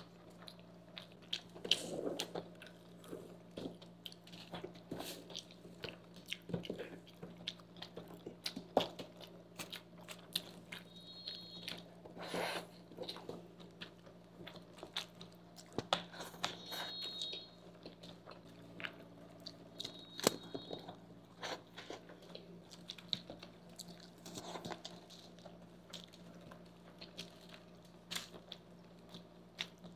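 Close-miked eating sounds: pasta and chowmein noodles being chewed, with many short, irregular wet clicks and smacks of mouths and forks, over a faint steady hum.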